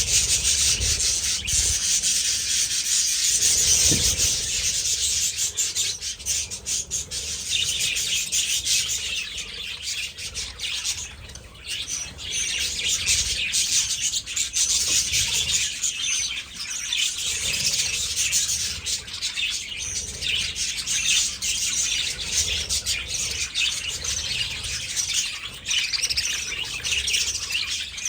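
A flock of budgies chattering, a continuous dense mass of high chirps and warbles.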